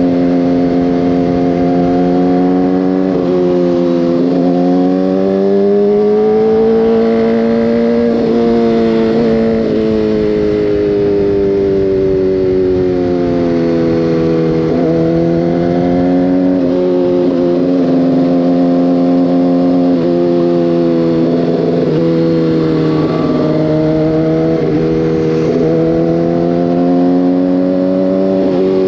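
Motorcycle engine heard from the bike while riding: its pitch climbs and falls with the throttle, with short breaks in the sound several times.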